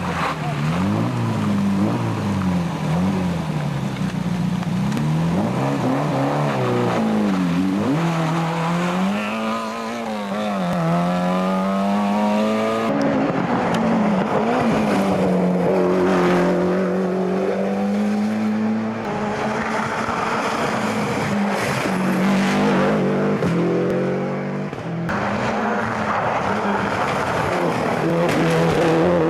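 Rally car engines revving hard, pitch climbing and dropping again and again through gear changes, with one car followed by another.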